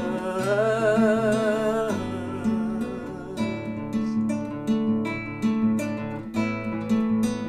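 Acoustic guitar playing a folk song. A held, wavering sung note ends about two seconds in, and the guitar then carries on alone with evenly spaced picked notes.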